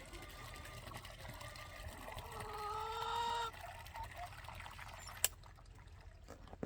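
Water running and pouring into a chicken waterer, its filling note rising in pitch as the waterer fills, then cut off abruptly about three and a half seconds in. A single sharp click comes a couple of seconds later.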